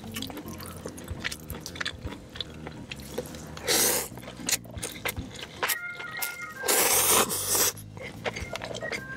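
Close-miked eating: crunching and chewing of crispy fried food, with two louder drawn-out noisy sounds, one about four seconds in and a longer one about seven seconds in, over soft background music.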